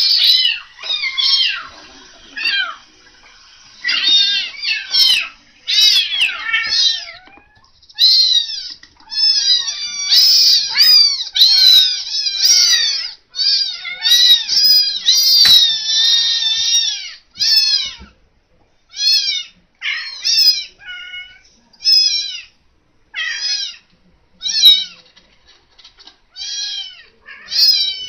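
Kittens mewing, many high-pitched cries one after another: packed close together through the middle, then coming as separate calls spaced out toward the end.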